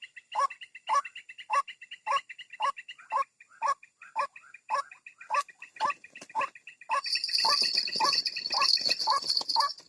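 White-breasted waterhen calls used as a lure: a rapid series of harsh croaking notes, about two a second, each dropping in pitch, over a higher chattering note. From about seven seconds in a steady high hiss joins, and everything stops just at the end.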